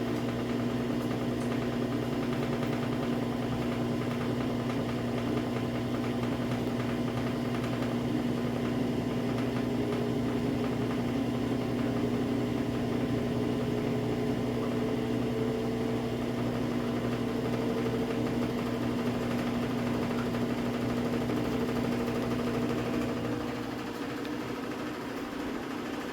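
Samsung AddWash front-loading washing machine ramping up in a spin cycle. Its inverter motor and drum give a steady hum, with a whine that slowly rises in pitch as the drum speeds up. The sound eases off slightly near the end.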